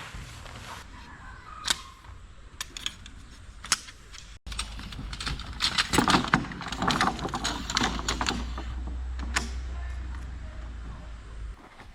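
Camping gear being handled: scattered sharp clicks and knocks, then after a cut a denser run of clattering and rustling over a low rumble.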